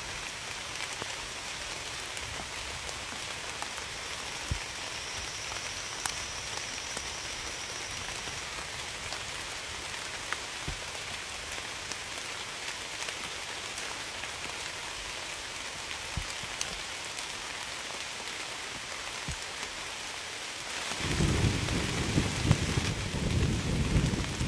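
Steady rain falling, with scattered louder drops tapping. About 21 seconds in, a low rumble of thunder sets in and grows louder.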